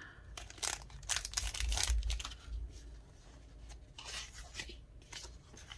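Paper packaging rustling and tearing as a sticker pack is handled and opened, in irregular bursts that are busiest in the first two seconds, with a soft low bump near two seconds in.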